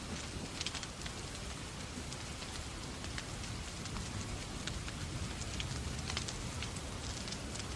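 Steady rain mixed with a wood fire crackling in a fireplace: a constant hiss of rain with scattered sharp pops and crackles.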